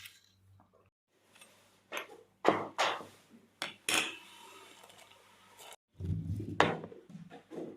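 Household clatter of dishes and utensils: several sharp clinks and knocks, then a few duller thuds about six seconds in.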